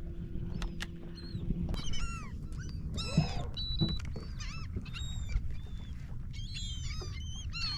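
A flock of seabirds feeding over the water, calling in many short, overlapping squawks that crowd together after the first couple of seconds. A steady low hum cuts off about a second and a half in, under a constant low rumble of wind and water.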